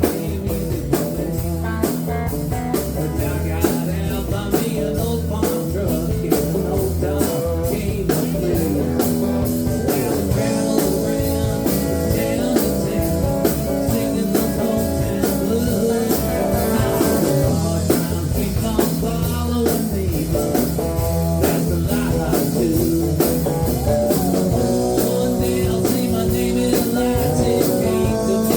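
Rock band music: guitar over a drum kit keeping a steady beat.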